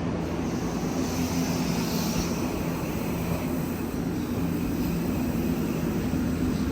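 Electric passenger train running, heard from inside: a steady drone of running noise with a low, even motor hum.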